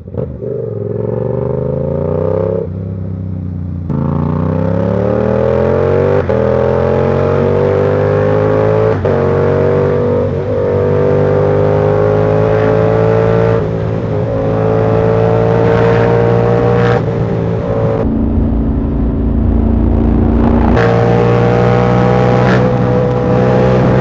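Yamaha R7's 689 cc parallel-twin engine pulling under load, its pitch climbing steadily, with brief breaks every few seconds at the gear changes. About 18 s in it eases to a lower, steadier note, then pulls again about 21 s in.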